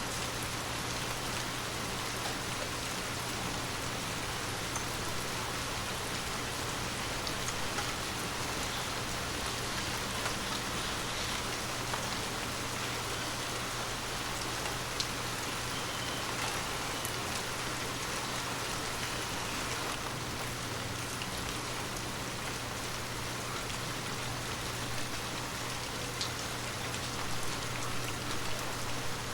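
Heavy rain falling steadily, an even hiss with scattered individual drop ticks, over a steady low hum.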